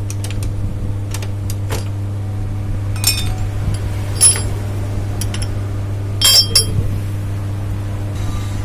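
Metal tools and parts clinking during motorcycle disassembly: a few sharp, ringing metallic clinks, one about three seconds in, another a second later, and two close together past six seconds. Under them runs a steady low hum.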